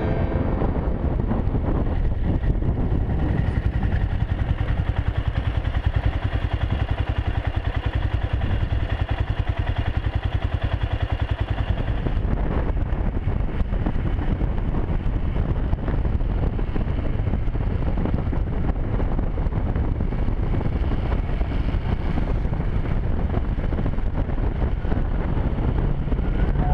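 Motorcycle being ridden at a steady pace: the engine running under a heavy, even rumble of road and wind noise. The higher part of the noise eases off about halfway through.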